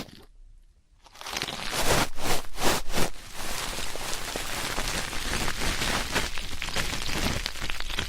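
Ear-cleaning ASMR sounds: an ear-cleaning tool scratching and rubbing close to the microphone, heard as a dense crackling rustle. It begins after about a second of near silence, with several louder strokes two to three seconds in.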